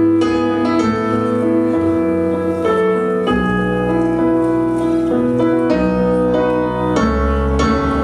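Live rock band playing an instrumental passage, sustained keyboard chords changing every second or so over a low bass line, with no singing.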